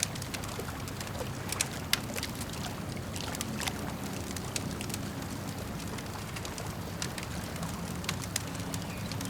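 Campfire crackling, with sharp pops and snaps scattered irregularly, the loudest a couple of seconds in and near the end. Beneath it runs a steady low wash of lake water lapping.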